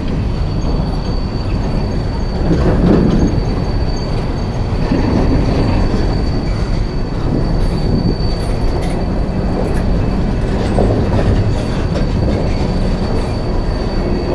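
Coal train's hopper cars rolling past on the track: a steady rumble of steel wheels on rail, with a thin, steady high-pitched wheel squeal over it.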